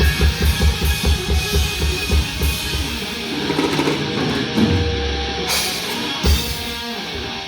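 Live hardcore crossover thrash band playing with distorted guitar, bass and drum kit. Fast, even kick-drum beats drive the first few seconds, followed by a held low chord and a single hard hit a little after six seconds.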